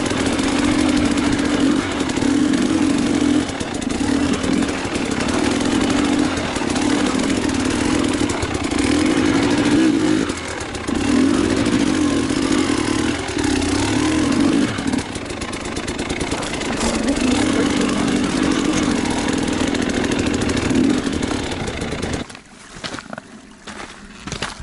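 Enduro motorcycle engine revving hard in repeated surges, the throttle opening and closing every second or two as the bike is worked along the trail. Near the end the engine sound drops away abruptly.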